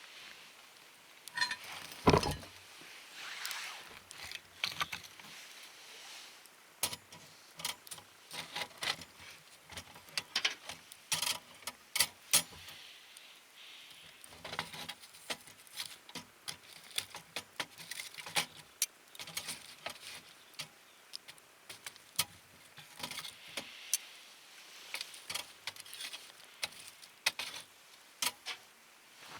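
Wood fire in a fire-pit stand crackling, with irregular sharp snaps and pops. There is a louder knock about two seconds in.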